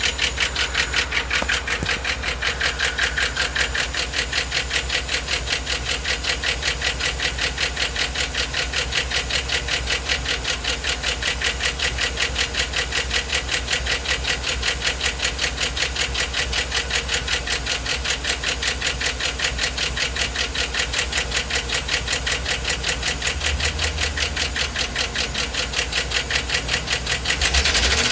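2009 GMC Yukon V8 engine running with a steady, quick, rhythmic knock that keeps time with the engine speed. The owner fears rod knock, but suspects a flexplate, torque converter or lifter could also be the cause. It gets a little louder near the end.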